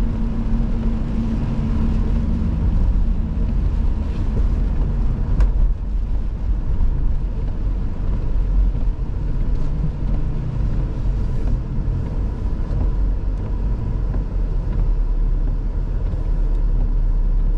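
Car driving along a snowy road, heard from inside the cabin: a steady low rumble of engine and tyre noise.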